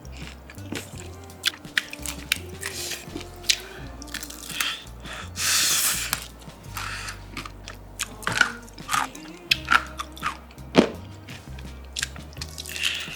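Crispy fried chicken being bitten and chewed close to the microphone, a run of sharp crunches and crackles with one longer crunch about halfway through, over background music.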